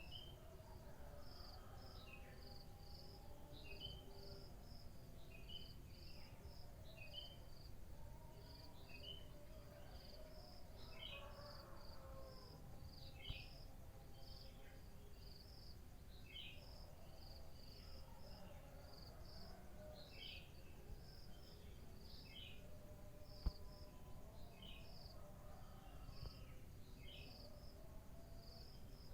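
Crickets chirping faintly in short chirps that repeat steadily, with birds calling in the background over a low rumble. One sharp click about three quarters of the way through.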